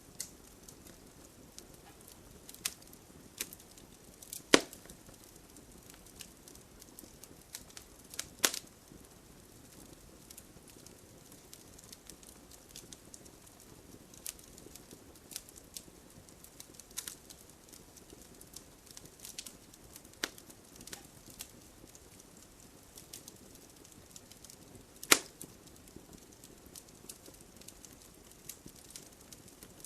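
Wood fire in a fireplace crackling, with irregular small snaps over a soft hiss and three sharp, loud pops: about four seconds in, about eight seconds in, and near the end.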